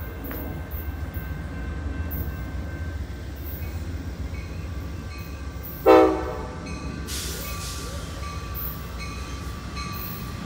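Amtrak Southwest Chief passenger train running on the BNSF line with a steady low rumble. About six seconds in, the locomotive sounds one short, loud horn blast.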